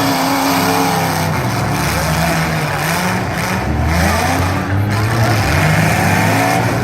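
Several derby car engines revving, their pitch rising and falling as they accelerate and back off.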